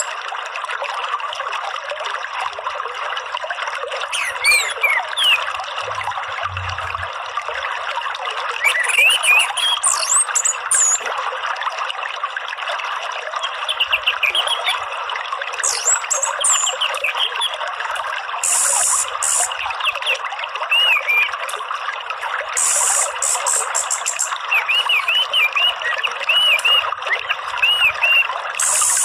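Steadily trickling, running water, with small birds chirping and whistling short notes over it. Twice, in the second half, a fast high trill cuts in for a second or so.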